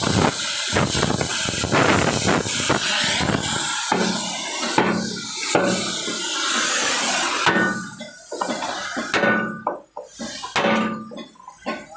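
Metal riveting with a hammer: fast, dense hammering for the first half, then single blows about once a second that ring.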